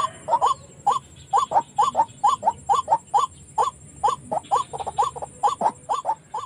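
White-breasted waterhen (ruak-ruak) calling: a long, even series of short repeated notes, about three a second.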